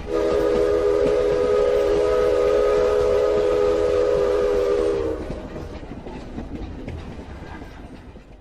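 Train whistle sounding a held chord of several notes for about five seconds, then stopping, with a rumble fading away afterward.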